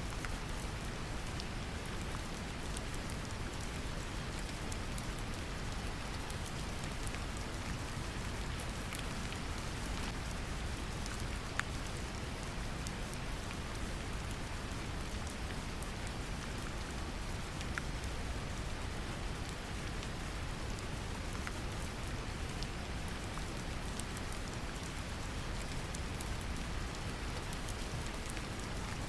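Steady brown noise, a deep even rumble, mixed with gentle rain: a constant hiss with scattered drop ticks, one slightly sharper tick about twelve seconds in.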